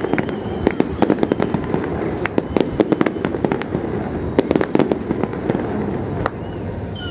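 A fireworks display: a dense, irregular run of sharp bangs and crackling pops over a steady rumble of further explosions.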